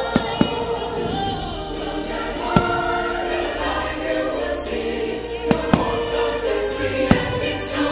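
Fireworks-show music with a choir singing over an orchestra, broken by about six sharp firework bangs, two of them close together near the start and two more in quick succession a little past halfway.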